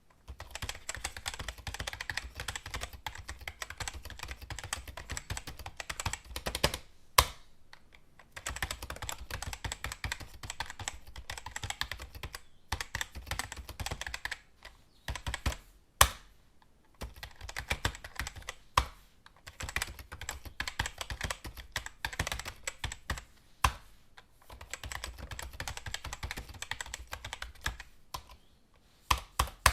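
Computer keyboard typing in quick runs of key clicks broken by short pauses, with a few louder single key strikes standing out.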